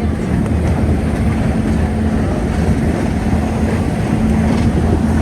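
Snowdon Mountain Railway rack train in motion, heard from on board: a steady running rumble with a constant low hum.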